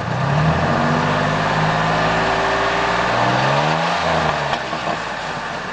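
1997 Ford F-150's 4.2 L V6 on its stock exhaust, revved once: the engine climbs quickly, holds the higher speed for a few seconds, then falls back to idle about four seconds in.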